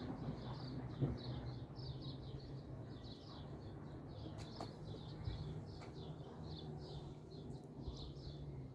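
Small birds chirping continuously in quick, repeated short notes, several a second, over a low steady hum.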